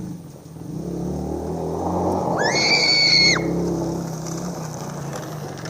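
A motor vehicle's engine running steadily, with rough noise rising over the first few seconds. A high, shrill squeal lasts about a second in the middle.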